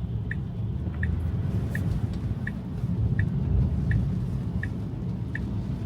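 Tesla turn-signal indicator ticking evenly, a little under one and a half ticks a second, over the low rumble of tyres on a wet road heard from inside the car.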